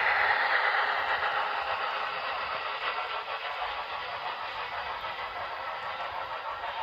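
HO scale model train running on the layout's track, a steady mechanical rolling and motor sound, loudest at first and easing off slightly.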